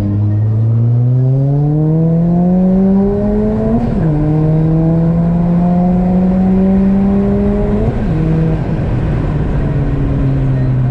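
Big-turbo Ford Fiesta ST engine under hard acceleration: the revs climb steadily, drop sharply at an upshift about 4 s in, climb again more slowly, drop at a second upshift about 8 s in, then hold roughly steady.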